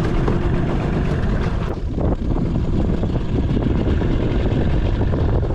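Strong wind buffeting the microphone: a steady, loud, low rumbling noise.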